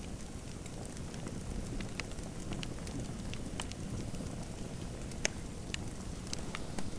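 Fireplace fire crackling: a steady low rumble with scattered sharp, irregular pops, the loudest a little past five seconds in.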